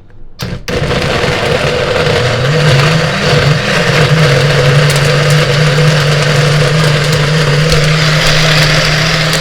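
An electric kitchen blending appliance switches on about half a second in and runs loudly, blending thick ice cream and milk. Its pitch wavers briefly, then holds steady.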